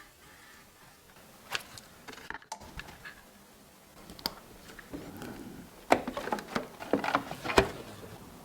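Irregular sharp clicks and light knocks of hard objects, a few spread out at first, then a quick cluster about six seconds in.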